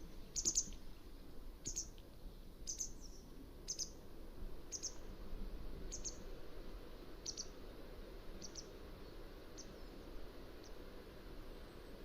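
Mountain wagtail calling: a series of short, high chirps about once a second, growing fainter toward the end, over steady low background noise.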